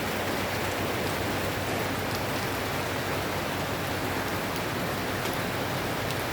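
Steady rain pouring down, an even hiss of rainfall with scattered sharp drop ticks.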